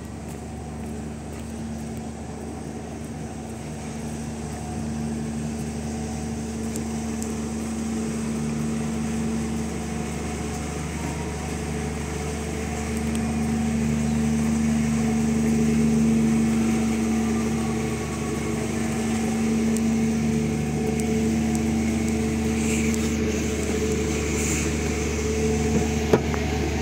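An engine running steadily, a low drone that holds one pitch and grows louder over the first half. A single click comes near the end.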